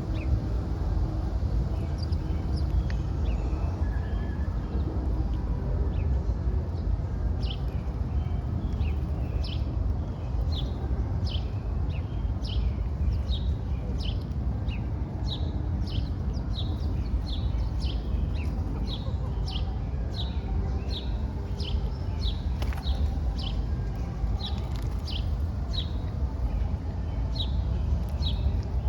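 Small bird chirping over and over, short high chirps nearly two a second, starting about a quarter of the way in, over a steady low rumble of background noise.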